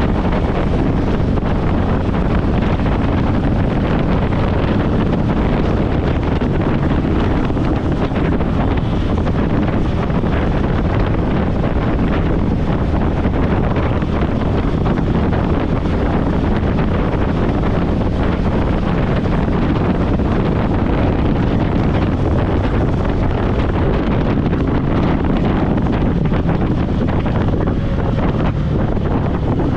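Steady, loud wind rushing over the microphone of a motorcycle rider's helmet-mounted camera while riding at speed.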